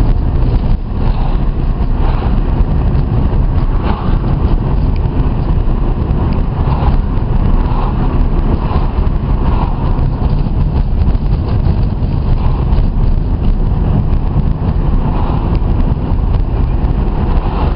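Steady low rumble of a car on the move, engine and road noise, without a break.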